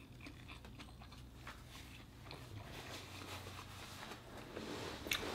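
Faint chewing of a mouthful of food, mouth closed, with a few small wet mouth clicks. A soft hiss of noise builds over the last couple of seconds.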